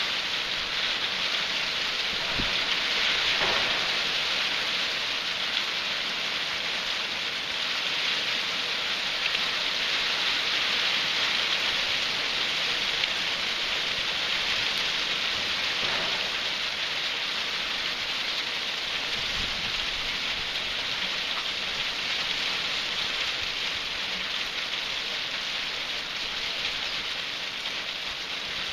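Hail and rain falling steadily on surfaces, a dense even hiss that eases slightly near the end.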